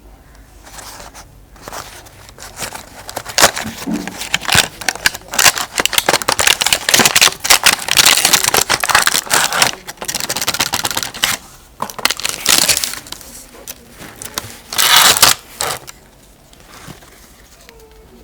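Packaging being handled and unwrapped: crinkling, crumpling and tearing in irregular bursts, busiest for most of the middle and again briefly near the end.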